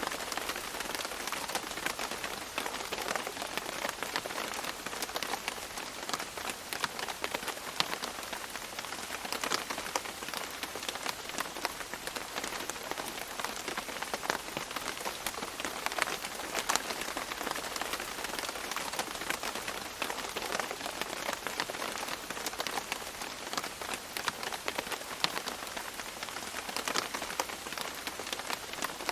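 Steady rain falling on foliage, with many separate drops pattering and ticking on leaves over a continuous hiss of rainfall.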